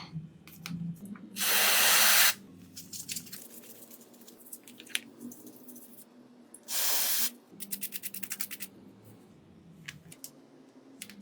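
Two short hissing bursts of aerosol spray, each about a second long, with a quick run of light clicks just after the second.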